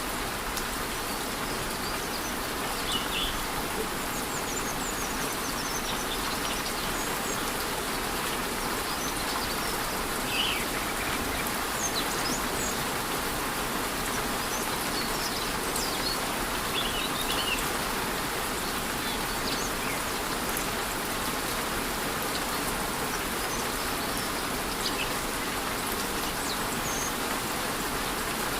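Steady rush of a rainforest waterfall with light rain falling, and brief high bird chirps now and then.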